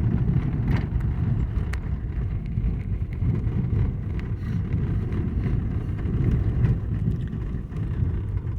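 A car driving on a snow-covered road, heard from inside the cabin: a steady low rumble of engine and tyre noise, with a few faint clicks.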